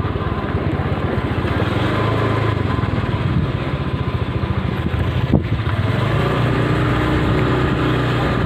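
Carnival sound-system speaker stack being tested at high volume: a loud, heavy, distorted low bass rumble with rapid pulsing, briefly cut off about five seconds in.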